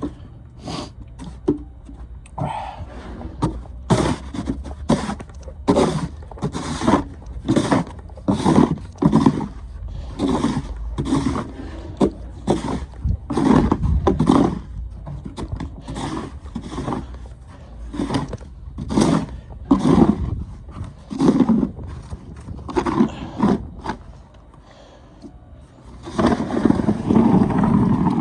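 Snow shovel scraping and pushing through snow in repeated, irregular strokes, about one or two a second, with a longer run of scraping near the end. A steady low rumble lies underneath.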